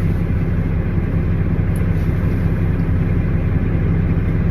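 Steady low rumble of a truck's engine running, heard from inside the cab, with a faint click about two seconds in.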